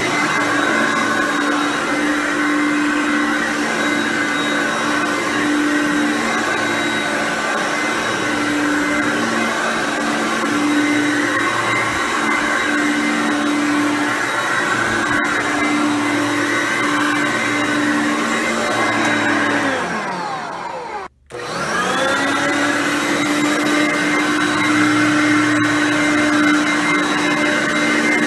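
Hoover Concept One U4219 upright bagged vacuum cleaner running steadily while vacuuming. About 20 seconds in, its motor winds down and cuts out briefly, then spins back up to full speed.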